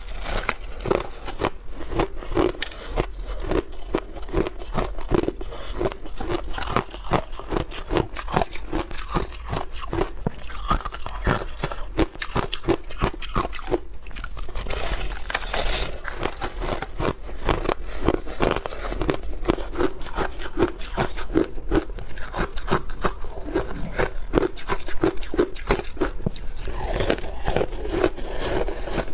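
A person biting and chewing hard block ice up close. It makes a dense, irregular run of sharp crunches and cracks.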